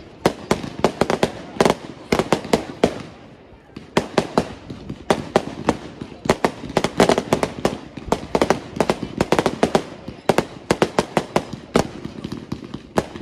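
Aerial fireworks bursting in a rapid, irregular string of bangs and crackles, easing off briefly about three and a half seconds in.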